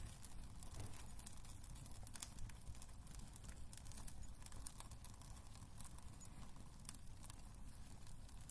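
Wood fire crackling in a fireplace: faint, irregular sharp pops and snaps over a low steady rumble of the flames.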